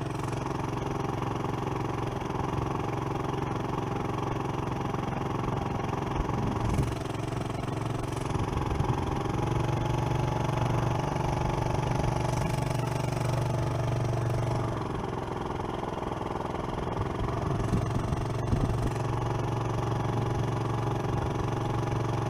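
Small engine idling steadily, with its speed and level rising slightly about 9 seconds in and settling back around 15 seconds.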